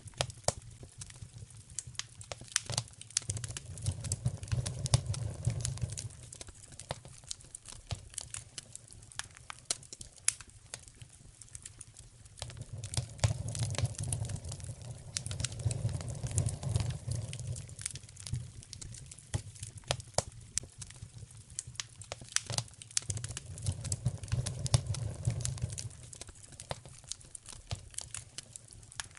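Wood fire crackling in a fireplace, with frequent sharp pops and snaps. Underneath, a low rumble swells and fades three times, about 3 to 6 seconds in, 13 to 18 seconds in, and 23 to 26 seconds in.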